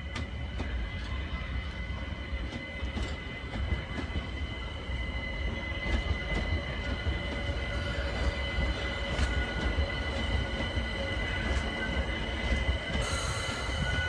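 London Overground Class 378 electric multiple unit passing slowly over pointwork: a low rolling rumble under a steady high-pitched wheel squeal, with scattered clicks as the wheels cross rail joints and points.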